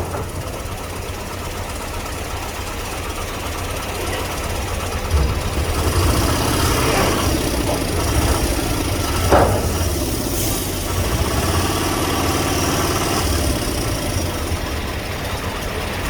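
A heavy vehicle's engine idling with a steady low rumble, with one brief sharp sound about nine seconds in.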